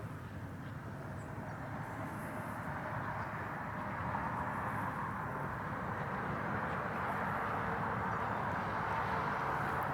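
Steady engine noise from distant traffic or an aircraft, growing gradually louder.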